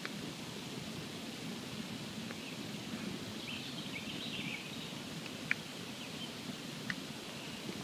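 Wood campfire burning with a steady low hiss and a few sharp crackling pops, the loudest about five and a half seconds in.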